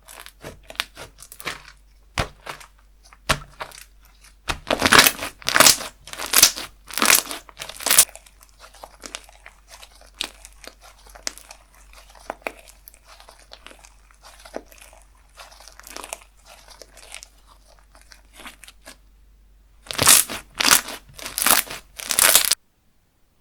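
Slime being squeezed, folded and stretched by hand, giving loud crackly pops in groups, with softer crackling in between. The sound cuts off abruptly near the end.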